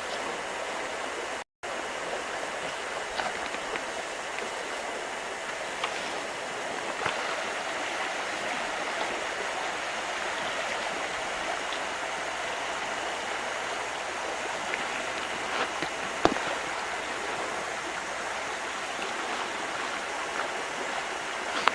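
Steady rushing of a stream or river rapids, with a brief complete dropout about one and a half seconds in and a few faint clicks.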